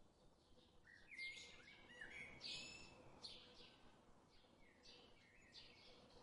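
Faint birdsong: a few short high chirps and little whistled glides, busiest in the first half and thinning out later.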